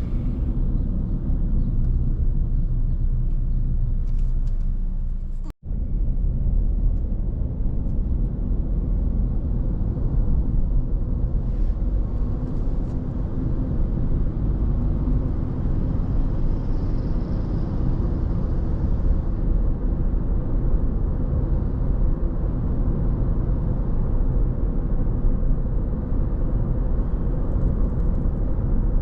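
Steady low rumble of a car being driven: road and engine noise. A split-second dropout to silence comes about five and a half seconds in.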